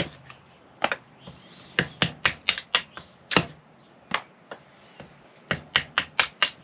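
A run of sharp, irregular wooden knocks and cracks, several in quick clusters, as fatwood kindling is split and handled to start a stove fire.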